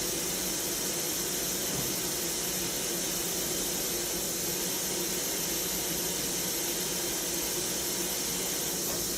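Steady hiss with a faint low hum from a running Fanuc Robodrill α-T21iF vertical machining center, holding one even pitch throughout.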